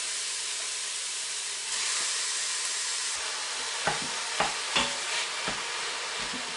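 Minced meat sizzling as it is added to the hot Instant Pot on its sauté setting with onions and carrots already frying: a steady frying hiss. In the second half a handful of short knocks against the pot as the meat is worked in.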